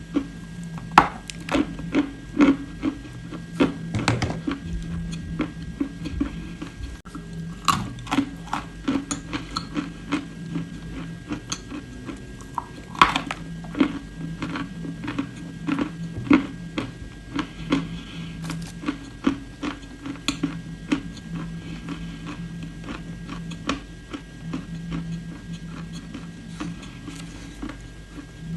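Clay being bitten and chewed: a dense run of sharp, irregular crunches and clicks, several a second, over a steady low hum.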